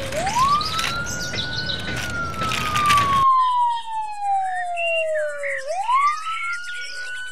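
Emergency-vehicle siren wailing: a single tone sweeps up quickly, holds briefly, then slides slowly down over about three seconds, and sweeps up again near the end. About three seconds in, a background of clicks and rustle cuts off, and short chirps are heard over the siren.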